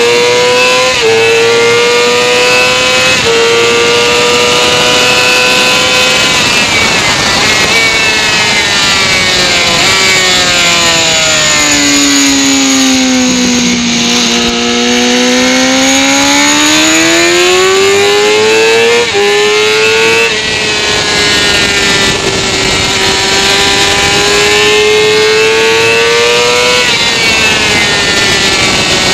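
Sport motorcycle engine at track pace, heard from the bike itself over a steady rush of wind noise. The revs climb with sudden drops at upshifts in the first few seconds, fall slowly to a low point about halfway through a long corner, then climb again with two quick upshifts, hold, and rise to one more shift near the end.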